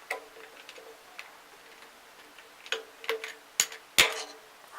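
Sharp metallic clicks and knocks from the parts of a grinder's drill-sharpening accessory being handled and shifted, each leaving a brief ring. There is one click at the start, then a few more in the second half, with the loudest two close together near the end.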